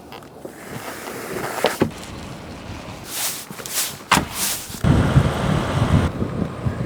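A few short whooshes and knocks, then from about five seconds in a loud, low rumbling rush of wind noise on the microphone.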